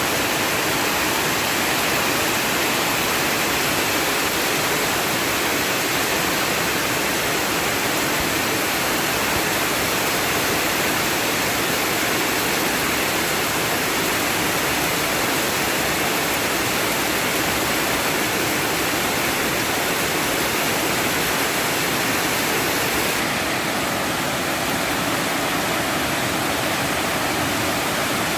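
Heavy storm rain falling in a dense, steady rush, its hiss turning a little duller near the end.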